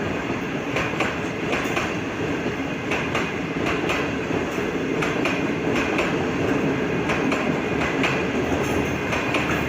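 Green Line Express passenger coaches rolling slowly out of a station: a steady rumble of wheels on rail, with irregular clicks as the wheels pass over rail joints.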